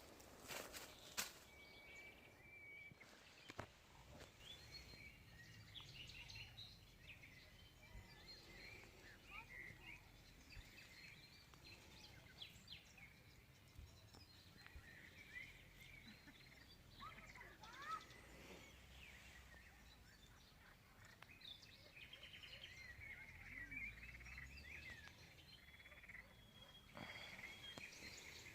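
Faint birdsong: many short chirps and quick sweeping notes from several small birds, scattered throughout over a low background rumble.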